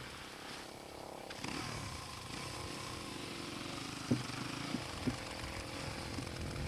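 Husqvarna 610 dirt bike's single-cylinder four-stroke engine running at a steady pitch, a little louder after the first second or so. A few short knocks come about four and five seconds in.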